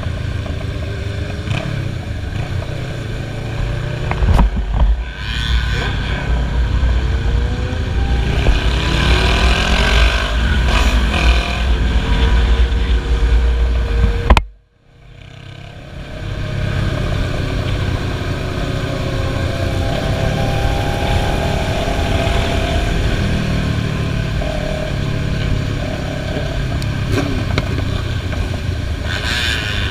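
Motorcycle engines running on a group ride, their pitch rising and falling with the throttle over a constant rumble. About halfway through, the sound cuts out abruptly and fades back in.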